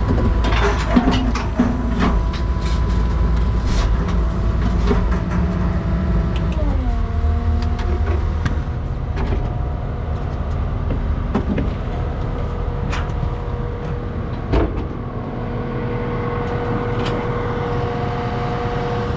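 A vehicle engine running steadily, its pitch dropping about six and a half seconds in as it is throttled down. Scattered metallic clanks and knocks sound over it.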